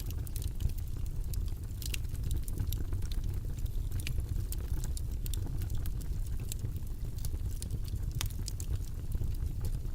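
Steady low rumbling background noise, with sparse, irregular light clicks and taps from desk work at a study session.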